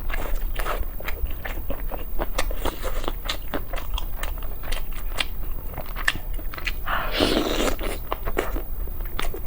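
A person eating close to the microphone: biting and chewing with many irregular crackly, crunchy mouth clicks, and a louder, fuller burst a little after seven seconds.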